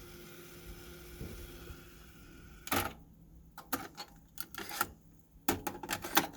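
Sony TC-WE475 dual cassette deck: a steady low hum for the first couple of seconds, then about a dozen sharp mechanical clicks and clunks at irregular spacing from its transport mechanism.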